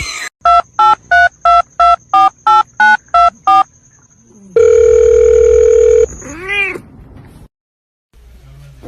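Telephone keypad tones as a number is dialled: about eleven quick two-tone key beeps, followed by a steady tone of about a second and a half. A short cat meow follows.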